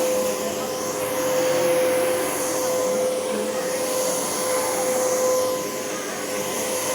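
Miele bagged upright vacuum cleaner running on carpet: a steady whooshing hum with a constant motor tone, its level swelling and dipping slightly.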